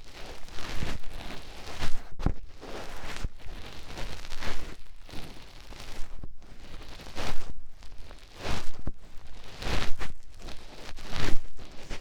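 Close-up fingertip ear-cleaning ASMR: fingers rubbing, scratching and digging in an ear at the microphone, in irregular rustling, scraping strokes a few times a second.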